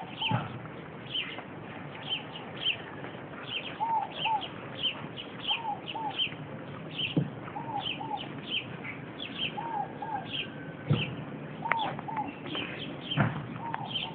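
Birds calling: a steady run of short high chirps, with a lower two-note call repeated every second or two. A few sharp knocks stand out briefly.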